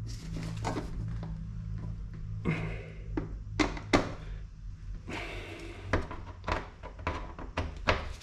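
Irregular knocks and clicks of car door parts being handled and fitted, about a dozen sharp strokes in the second half, over a steady low hum.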